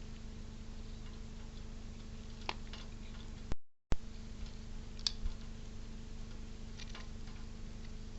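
Small scattered clicks and taps at a bird feeder over a steady low electrical hum. About three and a half seconds in, the sound drops out briefly, with a loud click on either side.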